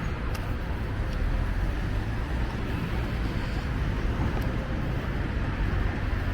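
City street traffic: a steady rumble of passing cars, with a couple of faint ticks shortly after the start.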